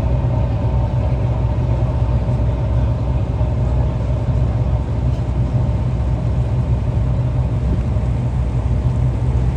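Boat engine running steadily, a constant low rumble with a steady hum over it, heard on board.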